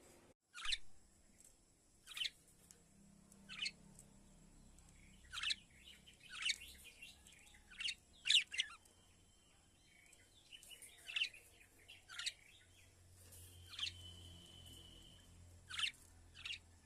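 A small bird chirping: short, sharp single chirps, about a dozen of them, one every second or two.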